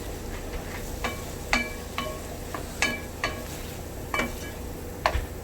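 A utensil clinking against a metal pan as vegetables are stirred while they fry in butter: about eight irregular clinks, each ringing briefly, over a faint steady sizzle.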